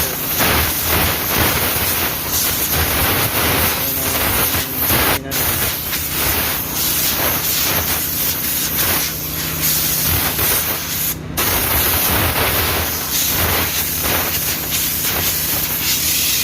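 Compressed-air blow gun hissing in uneven blasts as it blows dust out of a truck air filter element from the inside. The hiss breaks off briefly twice.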